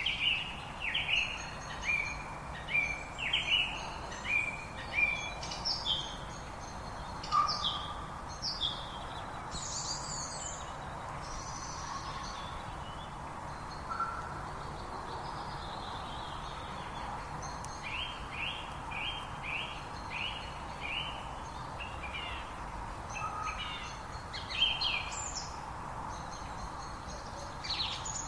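Several songbirds chirping and calling, with short falling notes repeated in quick series and a quieter stretch in the middle, over the steady rush of a river.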